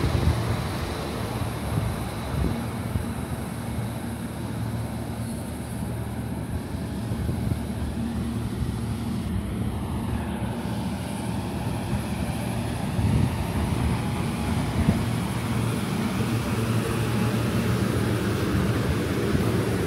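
Steady low mechanical hum from The Ghan passenger train standing at the platform, with a continuous rumbling noise underneath.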